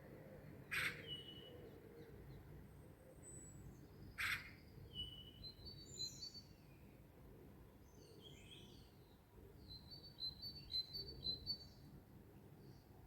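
Several small birds chirping and singing in short high notes, with a quick run of repeated notes near the end. Two sharp clicks, the loudest sounds, come about a second in and at about four seconds, over a steady low background hum.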